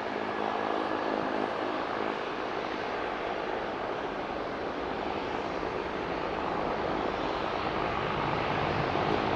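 Boeing 747-400's four jet engines at takeoff power, a steady roar that grows louder toward the end.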